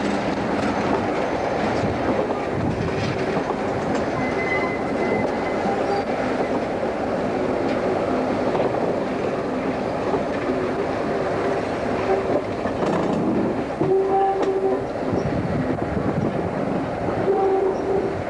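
Class 47 diesel locomotive with its Sulzer twelve-cylinder engine working a train, a steady mix of engine and wheel noise. Short steady tones sound about two thirds of the way through and again near the end.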